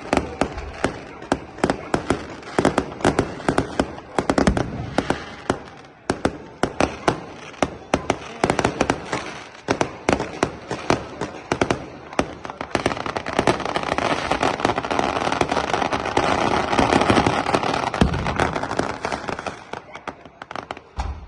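Fireworks going off in a rapid, irregular run of bangs and crackles. In the second half the bangs thicken into a dense continuous crackle, which dies away near the end.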